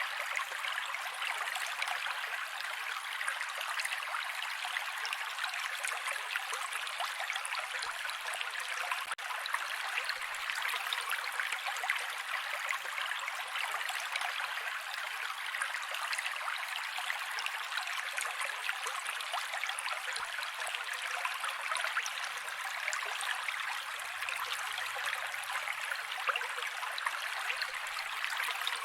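A mountain creek running over rocks: a steady, even rush of water with fine splashing and no deep tones.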